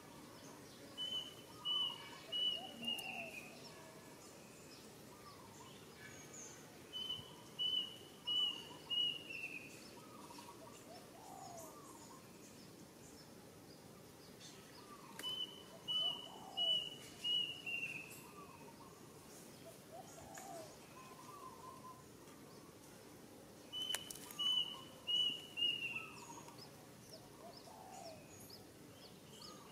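A bird singing the same short phrase about every eight seconds: four or five quick whistled notes at one pitch, the last ones sliding down. Other birds chirp more faintly between the phrases.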